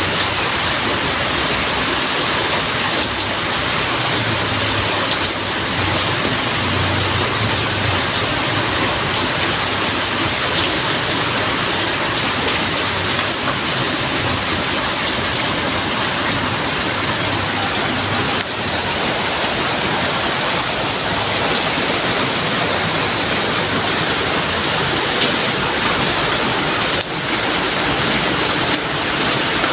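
Heavy rain falling steadily: a dense, even hiss with many small drop impacts ticking through it.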